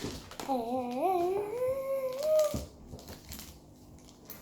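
A child humming one wavering note that slides upward in pitch for about two seconds, then stops.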